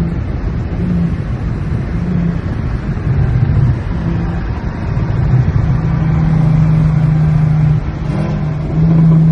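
Modified car engine and exhaust running under load, a steady low drone that pulses at first and grows louder and more even about six seconds in. It dips briefly near eight seconds, then comes back strongly.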